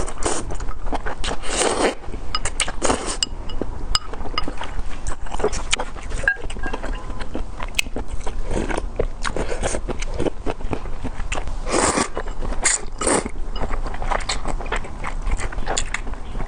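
Close-up eating of luosifen rice noodles: repeated slurps and chewing, with the loudest slurps about two and three seconds in and again near twelve and thirteen seconds, and small clicks of a spoon or chopsticks in between.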